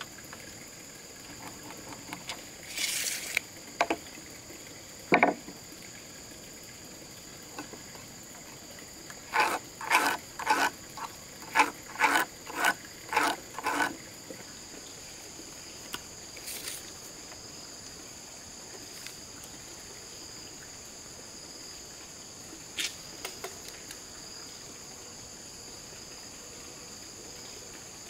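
Steady high-pitched insect chorus, crickets or similar, running throughout. A run of about eight short, evenly spaced strokes, about two a second, stands out in the middle, with a few single knocks scattered before and after.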